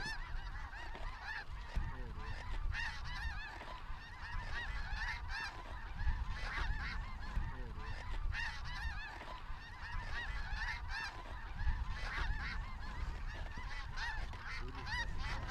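Large flock of snow geese calling overhead: a continuous chorus of many short, high, overlapping honks.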